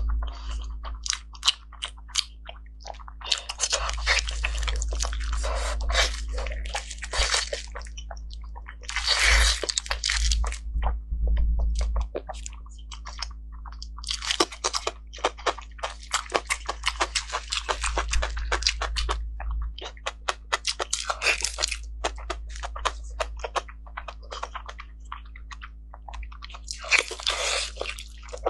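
Close-miked chewing and wet mouth sounds of someone eating braised pig skin rolls: sticky smacking clicks and squelchy chewing in several bouts, with quieter pauses between.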